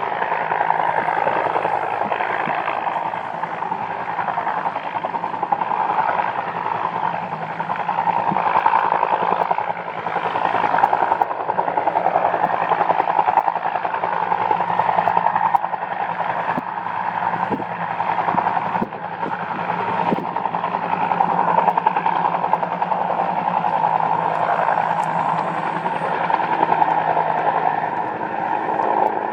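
Bell UH-1N Twin Huey helicopter flying near, its rotor and turbine engines running as one continuous noise that swells and eases slowly.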